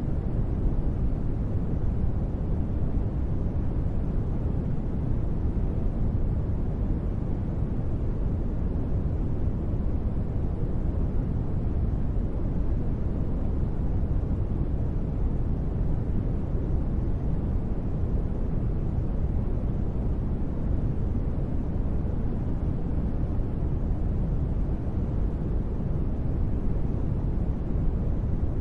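Steady synthetic ambient noise, deep and even, weighted to the low end with little treble, and unchanging throughout: a soft noise bed used as deep-space ambience.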